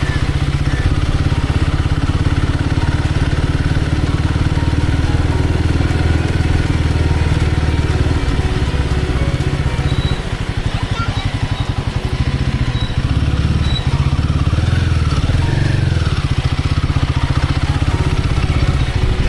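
Royal Enfield Guerrilla 450's single-cylinder engine running steadily while the motorcycle is ridden, dipping briefly about ten seconds in.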